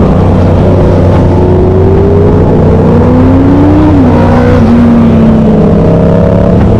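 Several loud vehicle engines running at once over a steady low drone, their pitches slowly rising and falling as they rev, one dropping sharply about four seconds in.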